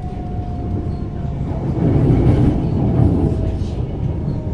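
Metro suburban electric train running on the rails, a steady low rumble with a thin whine that slowly drops in pitch; the rumble swells louder for a second or so in the middle.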